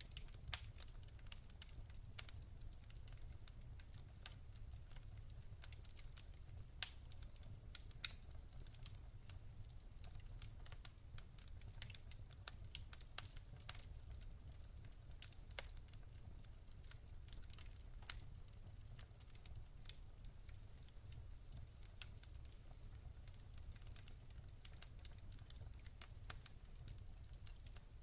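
Campfire crackling: wood popping and snapping in irregular small clicks, a few sharper pops among them, over a steady low rumble.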